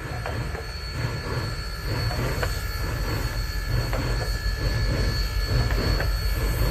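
Union Pacific Big Boy 4014, a 4-8-8-4 articulated steam locomotive, exhausting in a steady chuff of about two beats a second over a low rumble. The chuffing grows louder over the first couple of seconds.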